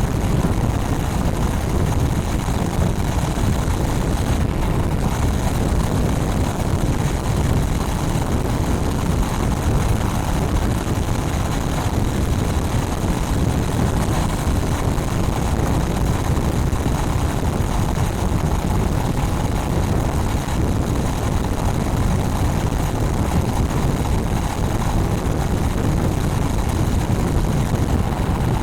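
Honda Rebel 500's parallel-twin engine running steadily at cruising speed through its stock exhaust, largely buried under heavy wind buffeting on the microphone.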